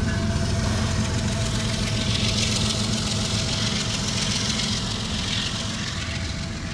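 CSX diesel freight locomotive rumbling past and slowly fading, with a hiss of wheels on rail in the middle. The engine note is one the railfan finds rougher than such engines usually sound.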